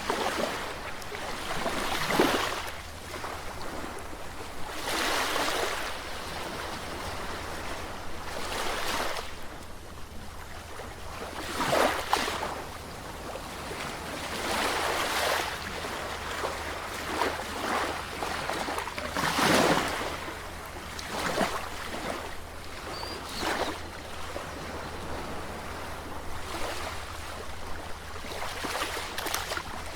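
Sea waves breaking, a fresh surge of surf every few seconds over a steady wash of water.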